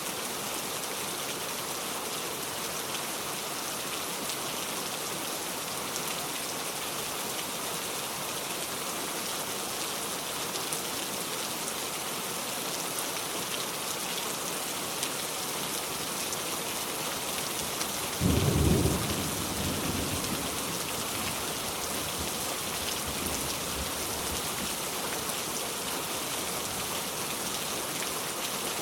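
Steady heavy rain throughout. About eighteen seconds in, a sudden loud, deep clap of thunder, followed by a fading rumble over the next few seconds.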